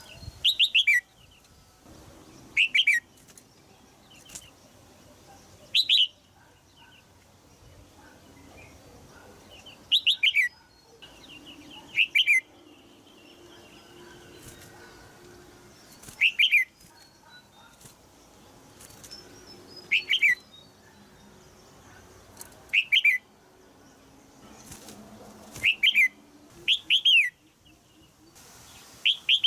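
Female red-whiskered bulbul giving short, sharp 'jiak' calls. Each call is a quick downward-sliding note, sometimes given in pairs, repeated every two to four seconds.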